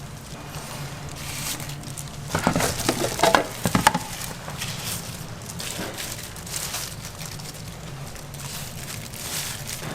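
Street-food kitchen work over a steady low hum: light crackling and rustling, with a burst of clattering knocks about two to four seconds in.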